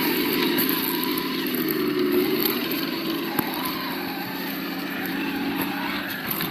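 Simulated engine sound from the sound module of an Absima Yucatan 1:8 RC crawler, running steadily with slight rises and falls in pitch, with a few faint clicks.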